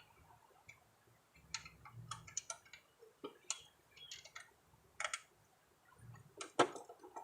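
Scattered light clicks and taps of parts and hand tools being handled while a mower deck spindle assembly is fitted back in place, with the loudest knock about six and a half seconds in.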